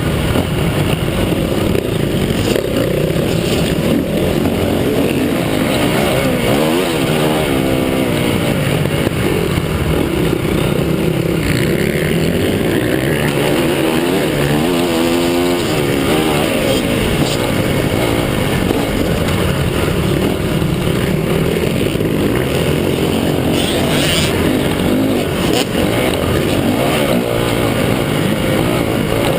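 Several motocross bikes running on the track, their engines revving up and down continuously, with bikes passing close by, their pitch rising and falling, about seven seconds in and again about fifteen seconds in.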